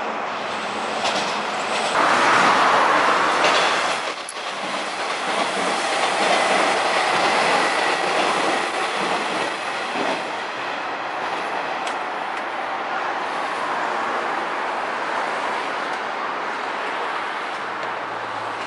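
Electric commuter trains passing on the tracks: wheels clattering over the rail joints in a steady rumble, loudest about two to four seconds in.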